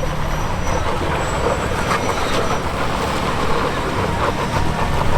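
Off-road truck's engine running steadily as the vehicle crawls over rough terrain.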